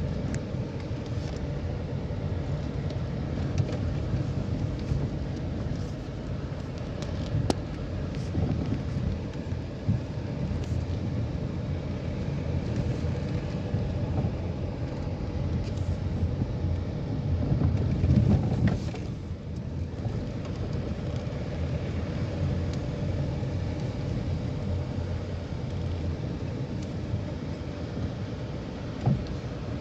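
A car driving: steady engine and tyre rumble with scattered short knocks and rattles, swelling louder about eighteen seconds in and easing off just after.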